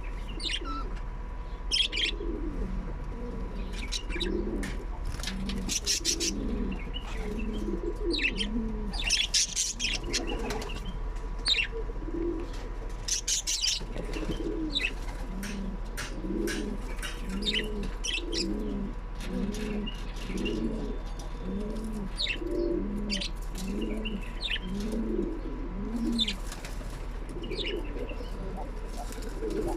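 A dove cooing over and over in a steady run of low notes, with short high bird chirps mixed in throughout, over a faint steady electrical hum.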